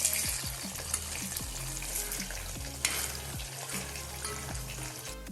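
Chicken pieces deep-frying in hot sunflower oil in a kadai, a steady sizzle, with two sharp clicks of a utensil, one at the start and one about three seconds in, as the pieces are turned over.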